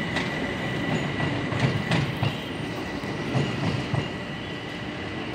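Electric commuter train running away over a junction of many tracks: a steady rumble with irregular sharp clicks of wheels over rail joints and points, and a thin steady high whine. It eases slightly in the second half as the train recedes.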